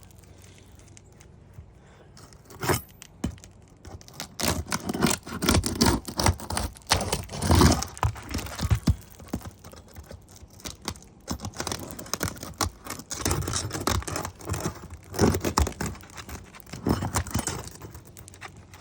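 Asphalt roof shingle being pried up: scraping and tearing as its tar seal strips pop loose and the shingle rips. Irregular scrapes and snaps come in clusters, loudest about seven or eight seconds in.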